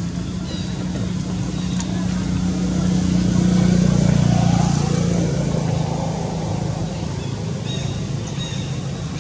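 A motor vehicle's engine passing by: a low hum that grows louder to a peak a few seconds in, then fades away.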